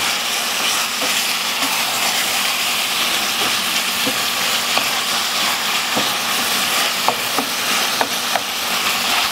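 Ground beef, garlic and chopped chipotle peppers sizzling steadily in a sauté pan over medium heat, while a utensil stirs them, clicking and scraping against the pan now and then.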